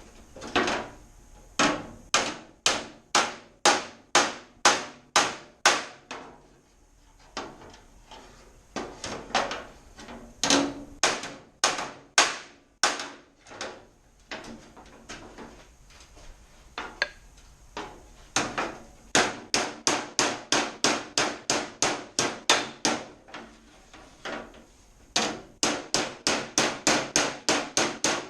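Hammer striking aluminium sheet metal over a dolly in runs of sharp, evenly spaced blows, about two to three a second, with brief pauses between runs: panel beating to knock a bent aluminium panel back into shape.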